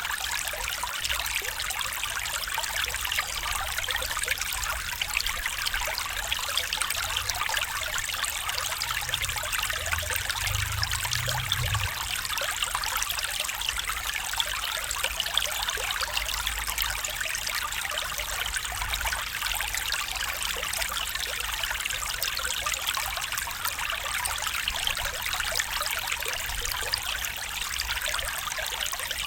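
Water of a small stream trickling and splashing over stones in a steady, unbroken rush, its sound mostly high and bright.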